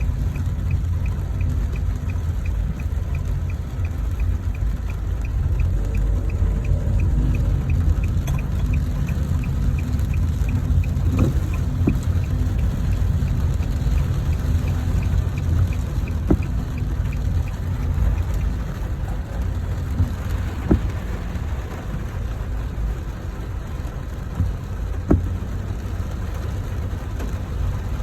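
Street ambience in the rain: a steady low rumble of vehicle traffic, with a fast, even ticking through most of the first two-thirds and a few sharp knocks in the second half.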